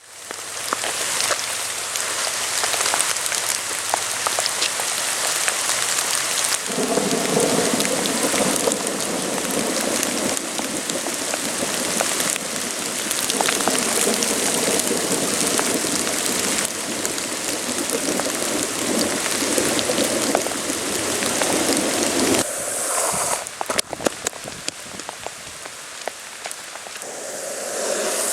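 Steady rain falling, a dense hiss that changes abruptly several times; from about 7 s to 22 s a lower rumble runs under it.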